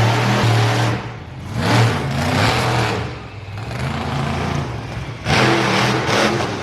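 Loud engine revving in surges, dipping briefly about a second in and again near the middle before rising once more.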